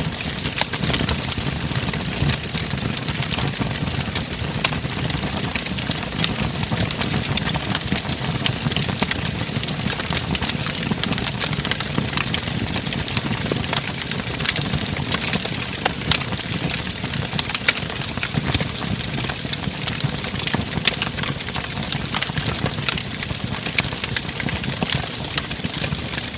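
Wood fire crackling in a fireplace: frequent sharp pops and snaps over a steady low rumble of the flames.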